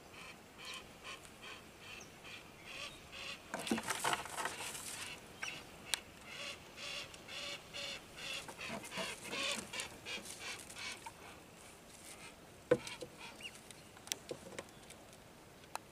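Wild birds calling: short, evenly repeated calls coming in quick runs, with a few sharp knocks about six seconds in and near the end.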